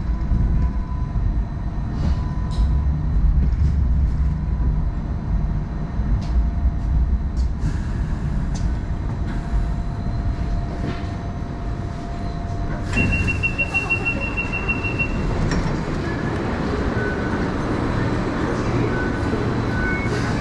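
MTR Light Rail phase 1 light rail vehicle running on the track, with a low rumble, scattered wheel clicks and a steady whine. About 13 seconds in comes a rapid high beeping lasting about two seconds, followed by brief high tones that may be wheel squeal.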